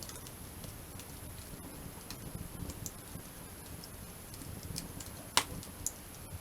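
Wood campfire crackling: scattered small pops and ticks over a low rumble, with one sharp loud pop about five seconds in and a smaller one just after.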